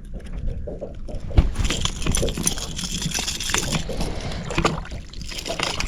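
Water splashing and sloshing with scattered knocks and clicks against a small boat, with one sharp knock about a second and a half in.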